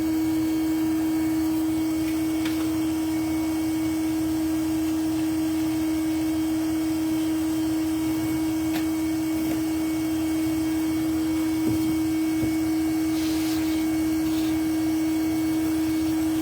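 Bee vacuum running steadily, a constant even hum, with a few faint clicks and knocks.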